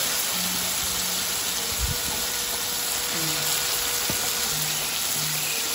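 Squid sizzling in hot chili sauce in a wok, a steady frying hiss. A single low knock about two seconds in.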